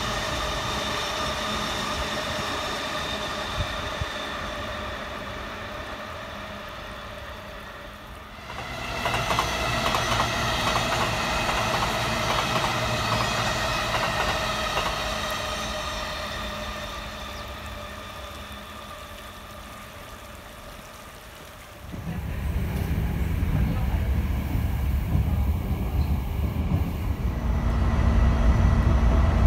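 JR Yokohama Line E233-series electric commuter trains passing on the track: a steady rumble with high ringing tones that fades away, then jumps louder about eight seconds in and fades again. About 22 seconds in it changes to the loud low rumble of the train running, heard from inside a carriage.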